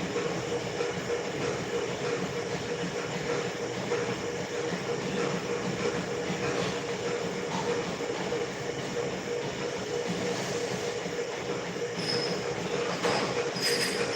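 Steady running noise of a train in motion, with a steady hum and a few brief high squeals near the end.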